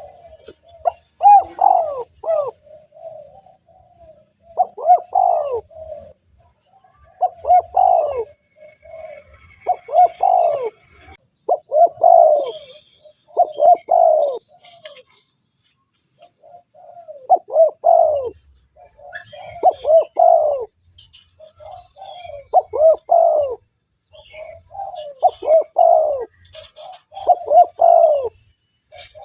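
Spotted dove (tekukur) cooing in the loud, persistent style of a 'gacor' bird: a phrase of a few low coos repeated every two to three seconds, with a slightly longer pause about halfway through.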